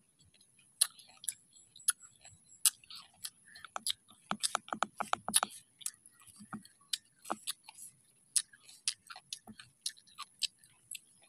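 Mouth sounds of someone eating a crisp, unripe carabaw mango: irregular wet clicks and smacks, with a quick run of about six smacks a second near the middle. A faint, steady high-pitched whine runs underneath.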